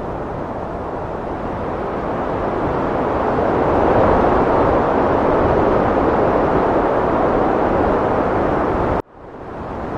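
Heavy wind blowing steadily and swelling into a stronger gust about four seconds in. It cuts off abruptly about nine seconds in and quickly fades back up, the seam where the loop restarts.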